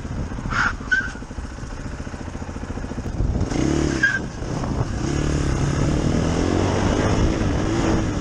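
Motorcycle engine running over road noise, its pitch climbing slowly from about five seconds in as it accelerates. Short high chirps come near the start and about four seconds in.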